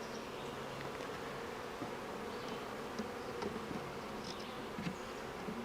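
Honeybees buzzing steadily as a mass from an open hive during a frame inspection, with a few faint clicks scattered through.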